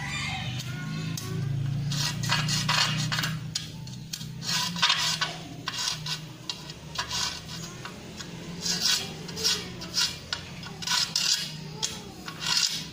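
Irregular scraping strokes of metal on metal, roughly one or two a second, as steel plate pieces for a lengthened chainsaw bar are worked and fitted together by hand. A low steady hum runs underneath and fades out about halfway through.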